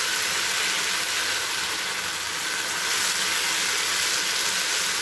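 Sauce-coated fried eggs and vegetables sizzling steadily in a nonstick frying pan over a high flame as they are stirred with a wooden spatula.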